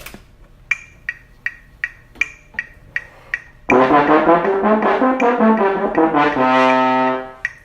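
Steady ticking, about three ticks a second. Then a brass instrument comes in loud with a quick run of notes and ends on a long held note.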